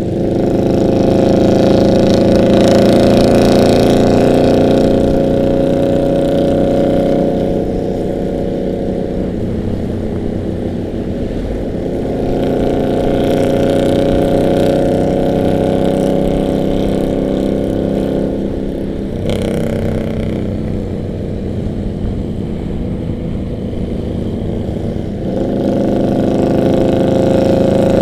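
Harley-Davidson V-twin motorcycles cruising on the road, their exhaust hum rising and falling in pitch as the riders roll the throttle on and off. The engine note swells louder near the start, again in the middle, and once more near the end.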